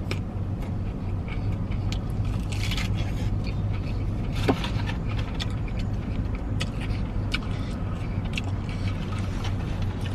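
Steady low hum of a car engine idling, heard inside the cabin, with scattered small clicks and rustles.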